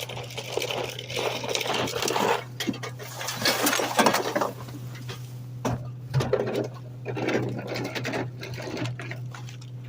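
Garbage truck: a steady engine hum with bursts of rattling and clinking, loudest about four seconds in.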